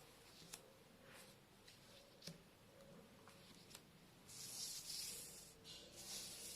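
Quiet room with a few faint clicks and two brief rustles in the second half: small letter pieces being picked up and slid into place on a puzzle mat.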